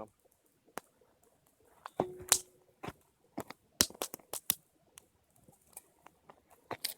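Irregular sharp clicks and knocks, several in quick succession around the middle, with a brief low steady tone about two seconds in.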